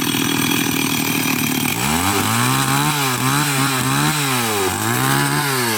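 Chainsaw cutting dry firewood. After a steady rough run, about two seconds in the engine starts revving up and dropping back about once a second as the chain bites into the wood.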